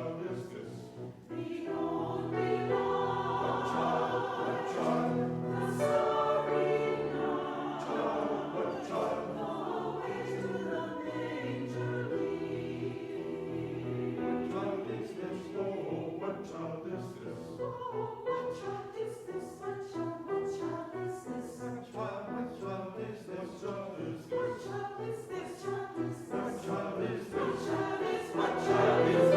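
Church chancel choir singing a Christmas choral piece in several parts, with a brief break about a second in and swelling louder near the end.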